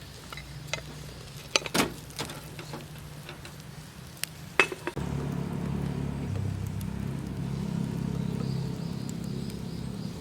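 Camp cooking: metal utensils clink sharply against a pan a few times over a faint sizzle. About halfway through, a steady low hum comes in.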